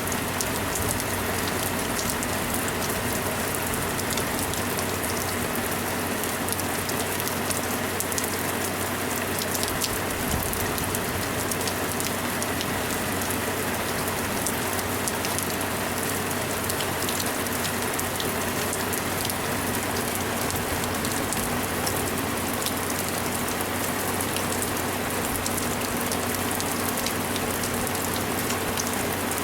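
Steady monsoon downpour: heavy rain falling without a break, with many sharp raindrop ticks.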